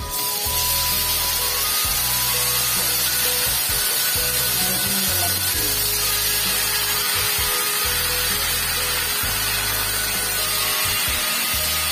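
Long beans and pumpkin slices sizzling loudly and steadily in hot oil in a wok. The sizzle starts suddenly as the beans are tipped in. Background music with a low bass line plays underneath.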